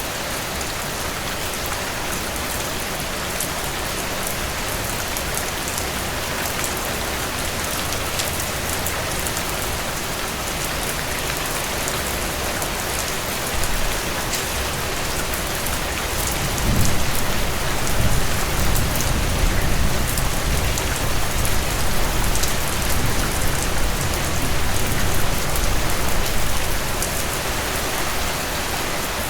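Heavy rain falling steadily on a cabin porch and roof, a dense even hiss. About halfway through, a low rumble of thunder rolls in and lasts around ten seconds before fading back under the rain.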